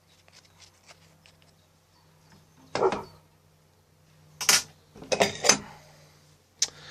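A few short handling sounds, rustles and knocks, about three seconds in, twice around five seconds, and once near the end, over a faint steady low hum.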